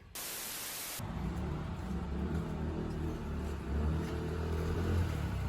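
A short sharp hiss, then a motor running with a low rumble that wavers in pitch and cuts off suddenly near the end.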